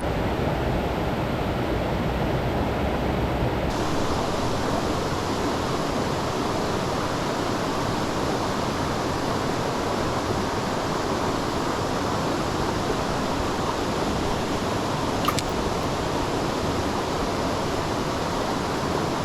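Mountain stream rushing over rocks, a steady, even rush of water, with a single faint click about fifteen seconds in.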